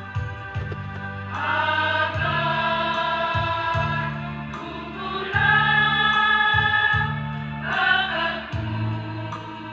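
A school choir singing long held chords without clear words, swelling in volume three times, over a steady low accompaniment.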